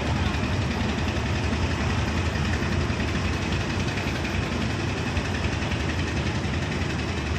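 An engine running steadily at idle, a continuous low rumble with no change in pitch.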